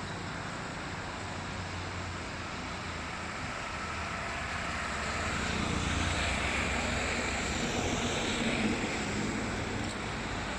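Steady rushing of heavy rain and floodwater with a low rumble underneath, swelling about halfway through and easing near the end.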